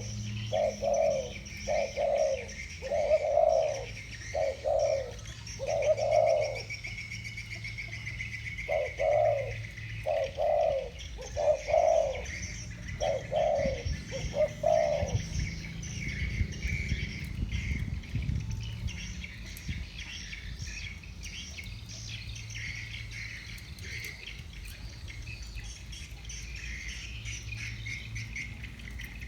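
Spotted doves cooing, a run of short repeated coo notes that stops about halfway through. A steady high insect shrill runs underneath throughout.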